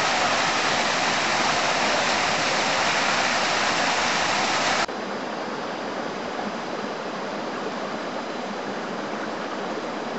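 Steady rushing of flowing water, like a creek or small falls. About five seconds in it cuts off abruptly to a quieter, duller rushing.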